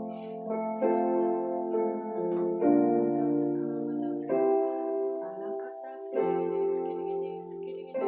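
Slow piano music, sustained chords changing about once a second, played as background for prayer.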